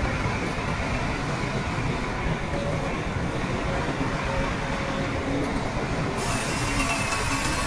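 Shantui crawler bulldozer running at work, its engine noise steady, with faint wavering squeaks from the tracks and running gear. About six seconds in, a higher hiss comes in suddenly.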